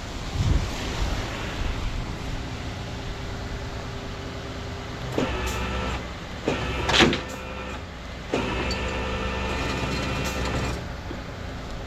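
Rollback tow truck's winch pulling a wrecked car up the bed: a motor whine in two runs in the second half over the truck's steady low engine rumble, with a short sharp squeal about seven seconds in.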